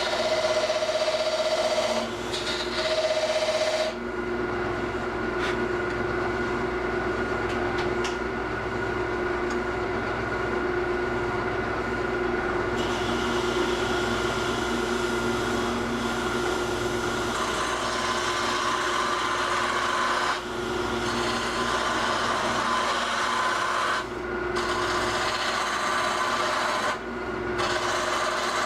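A wood lathe running with a steady motor hum while a turning tool cuts the spinning wooden blank, making a scraping, hissing cutting noise. The cutting noise shifts and briefly drops several times as the tool is moved and re-engaged along the work.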